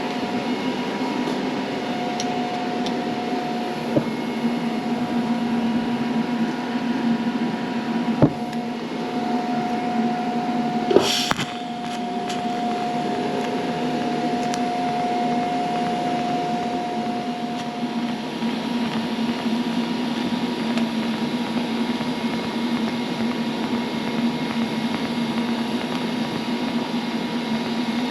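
TIG welder at work on a steel seat frame: a steady electrical hum, with a higher steady tone while the arc burns, briefly early and then for about nine seconds in the middle. A few sharp clicks come through, the loudest about eleven seconds in.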